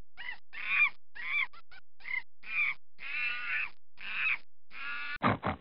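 A monkey calling: a rapid string of short, harsh, arched calls, two to three a second, the later ones a little longer.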